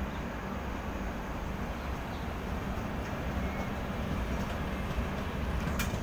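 Passenger train of LHB coaches rolling past, a steady rumble of wheels on rail growing slowly louder. A single sharp click comes near the end.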